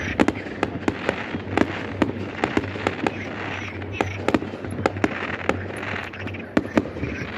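Aerial fireworks display: a rapid, irregular string of sharp bangs from bursting shells, often several a second, over continuous crackling.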